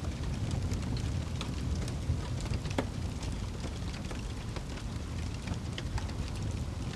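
Wood fire crackling and popping: irregular sharp pops scattered over a steady low rumble.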